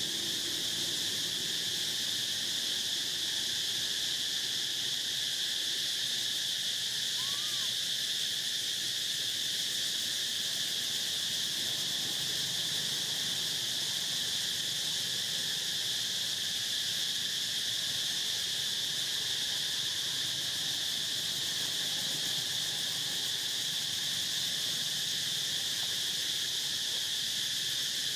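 Steady, continuous shrill drone of an insect chorus, with one brief faint chirp about seven seconds in.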